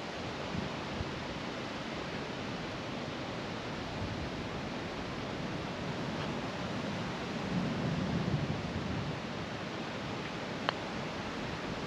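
Steady rushing wind noise, with a single sharp click about ten and a half seconds in.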